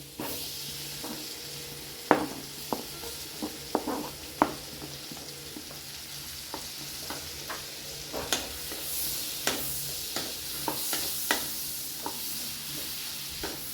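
Chopped onions sizzling in hot butter on a nonstick tawa, with a utensil stirring them and tapping and scraping against the pan at irregular moments.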